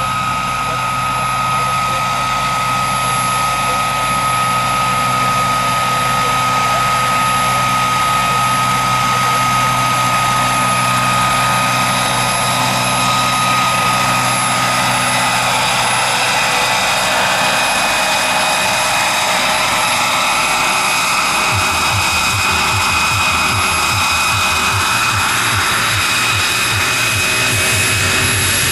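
Radio-controlled scale model helicopters running, with a steady high-pitched whine. About 21 seconds in, a low rhythmic rotor beat joins it.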